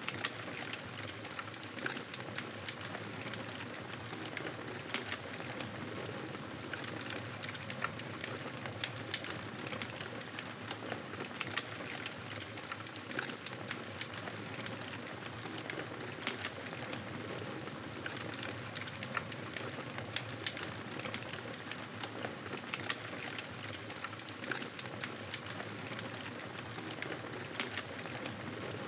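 Campfire crackling, with frequent small pops and snaps over a steady hiss.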